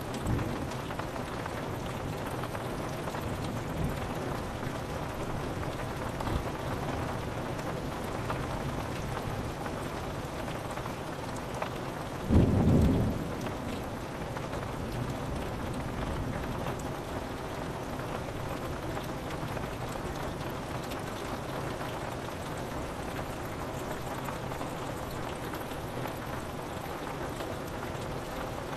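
Steady rain falling on a window, with one short, low rumble of thunder about twelve seconds in, the loudest moment.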